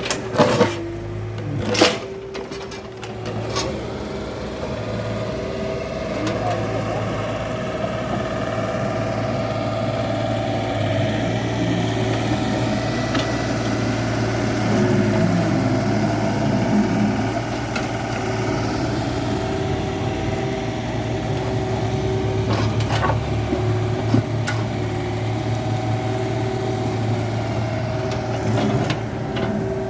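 Excavator's diesel engine running steadily under working load. A few sharp knocks come in the first few seconds, and single ones about three quarters of the way through and near the end.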